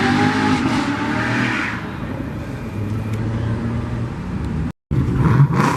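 Car engine revving loudly, then easing to a steady lower running note. After a sudden cut, another short rev rises near the end.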